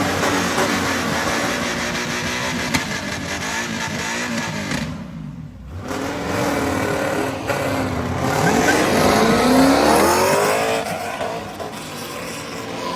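Car engine revving and accelerating hard. Its pitch drops into a short lull about halfway through, then climbs steeply to its loudest about ten seconds in before falling away.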